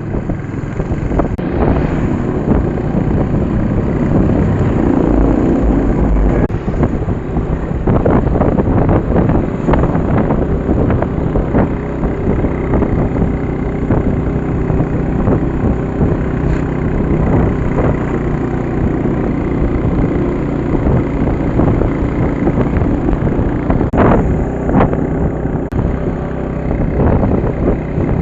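A vehicle engine running steadily, with wind rumbling on the microphone.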